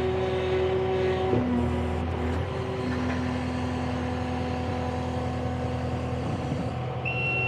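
Kubota SSV75P skid steer's diesel engine running steadily under work, its note dropping about a second in. A high warning beep starts near the end.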